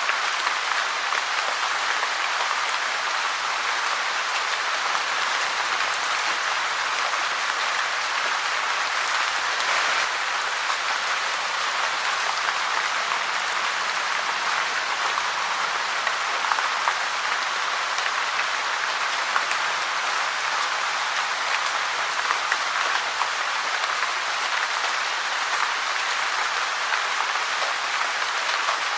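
Steady rain falling, an even hiss with a dense patter of small drop ticks.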